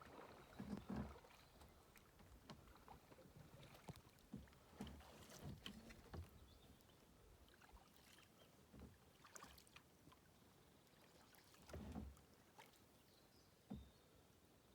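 Faint kayak paddling: irregular small splashes and drips of water from the paddle, with a few soft low thumps, the clearest about a second in and near twelve seconds in.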